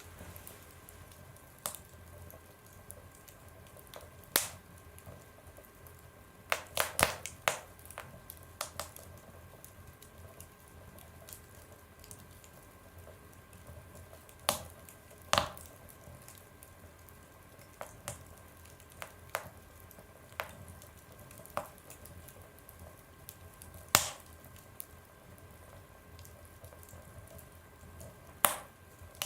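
Wood fire burning in a stove, crackling with sharp, irregular pops over a faint steady hiss; a quick cluster of pops comes about seven seconds in, and the loudest single pop near the end.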